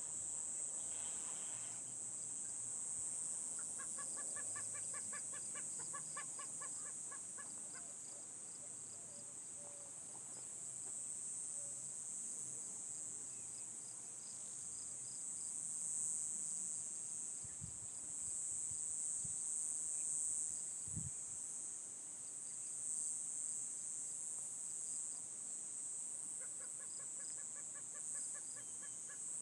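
A steady high insect chorus, with a bird twice giving a rapid run of evenly repeated calls, once early on and again near the end. A few soft low thumps come in the middle.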